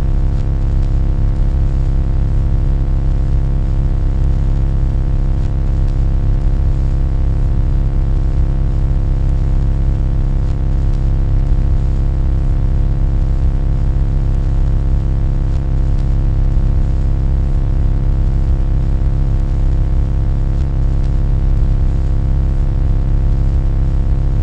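Loud, steady low hum with many steady tones stacked above it and a faint hiss, unchanging throughout.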